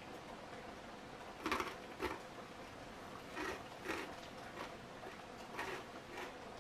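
A person chewing a bite of tortilla wrap filled with crunchy dried cheese balls: three pairs of short crunches about two seconds apart.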